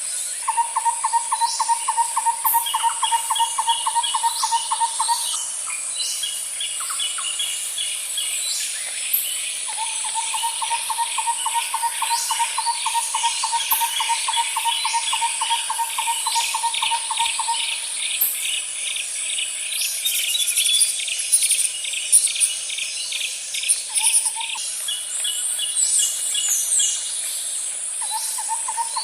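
Nature ambience of birds and insects: a steady high-pitched insect drone runs under scattered bird chirps and fast trills. A lower, rapid trill sounds for several seconds at a time, twice, then again near the end.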